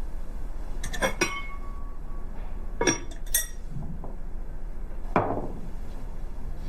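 Tableware being handled: a few sharp knocks and clinks, one near the start leaving a brief ringing tone, and a duller knock near the end.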